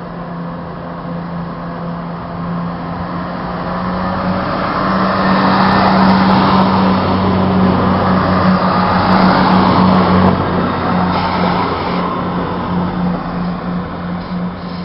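Chiltern Railways Class 168 diesel multiple unit running past, its engines' steady drone and wheel noise building to a peak about six to ten seconds in, then fading as it draws away.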